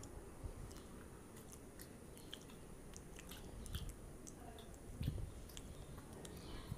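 A person chewing food with the mouth closed, quiet and close, with scattered small wet clicks and a soft low thump about five seconds in.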